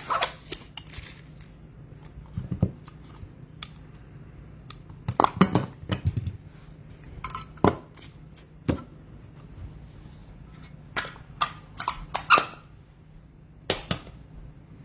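Trading cards and packs being handled on a table: scattered sharp clicks and taps with short rustling scrapes, over a faint steady room hum.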